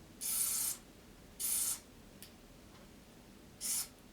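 Three short hissing bursts from an aerosol spray can, each about half a second long, near the start, about a second and a half in, and near the end, flushing the boombox's record/playback selector switch, which the repairer suspects has crud in it that stops the radio playing.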